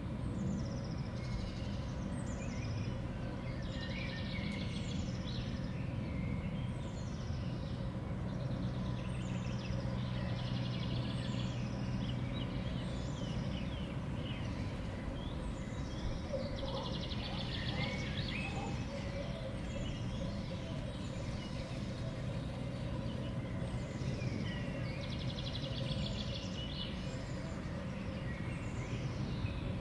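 Small songbirds at a winter feeder calling again and again: quick high downward-sweeping notes and short rapid trills, over a steady low background hum.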